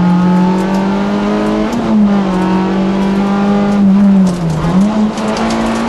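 Peugeot 106 Rallye's four-cylinder engine held at high revs, heard from inside the cabin. Its pitch steps up slightly about two seconds in, then dips briefly near four and a half seconds and climbs straight back.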